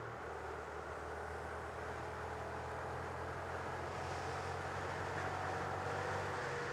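Honda Grom's single-cylinder 125 cc engine running at a steady, even pace while riding, over a constant hiss of wind and road noise.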